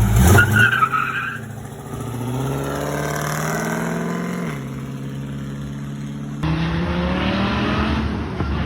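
Car accelerating hard: a brief tire squeal at the start, then the engine revving up in pitch, dropping suddenly as it shifts up about four and a half seconds in, and running on. It changes abruptly near the end to another stretch of engine noise.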